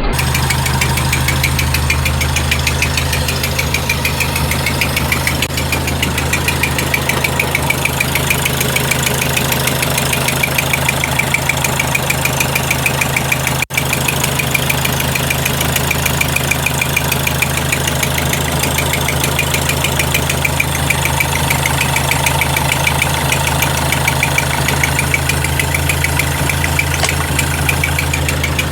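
The freshly rebuilt four-cylinder engine of a 1929 Riley 9 Monaco, idling steadily on its first run after the rebuild. A fast, even, high-pitched chirping rides over the engine note, and its cause is unknown.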